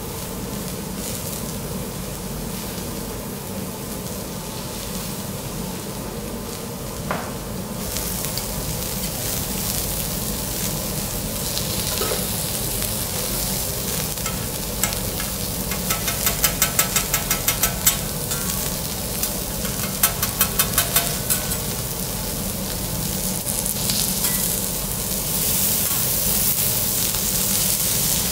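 Seafood sizzling and frying on a teppanyaki steel hot plate, a steady hiss that grows a little louder about eight seconds in. About two-thirds of the way through come two short runs of rapid tapping, about six taps a second.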